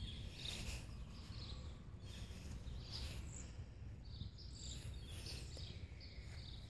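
Quiet outdoor ambience: faint birds chirping now and then over a steady low rumble.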